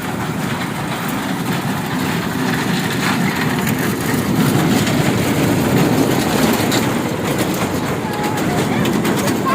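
Train running along the track: a steady rumble of wheels on rails.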